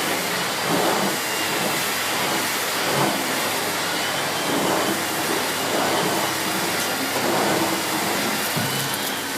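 Miele S6 Cat and Dog cylinder vacuum cleaner with its 2000 W motor running at full suction while the floor head is pushed back and forth over carpet, the sound swelling and easing with each stroke over a faint wavering whine.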